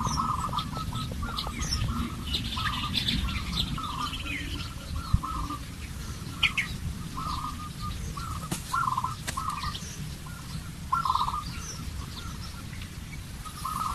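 Several birds calling and chirping: short calls repeated at irregular intervals, with higher chirps between them, over a steady low rumble.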